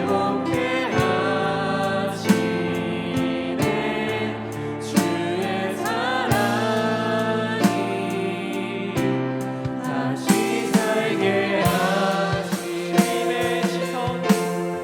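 Contemporary Christian worship song: singing voices over a band with a steady drum beat and sustained chords.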